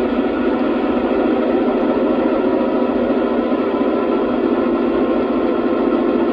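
Lionel Legacy RailSounds system in an O-scale SD70MAC model playing its sampled diesel engine sound, the EMD 16-cylinder 710 two-stroke of the real locomotive, running steadily through the model's small onboard speaker, thin with little deep bass.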